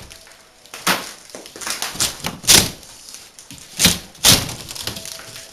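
Irregular hard knocks and clatters of a masonry fireplace being dismantled, about five impacts, the loudest about halfway and about three-quarters through.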